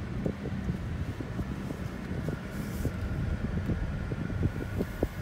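Kia Stinger GT2's twin-turbo V6 running at low speed as the car pulls away, heard from inside the cabin as a steady low hum.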